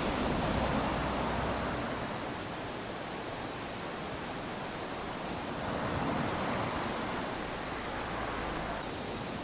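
Small waves washing up onto a sandy beach: a steady hiss of surf that swells twice, near the start and again about six seconds in, as each wave runs up the sand.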